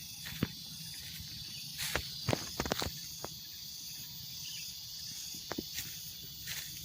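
Mountain forest ambience: insects keep up a steady high-pitched buzz, with scattered sharp clicks and cracks, most of them in a cluster about two to three seconds in.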